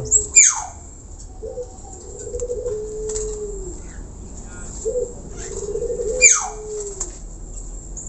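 Birds calling: two sharp, high whistles that sweep steeply downward, one near the start and one about six seconds in. Between them come two long, low, wavering calls of about two seconds each, dropping in pitch at the end.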